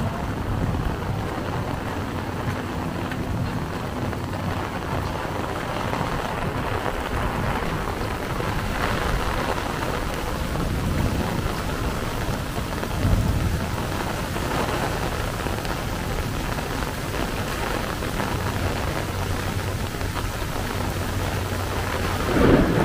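Heavy rain falling steadily, with a low rumble underneath and a brief louder swell about thirteen seconds in.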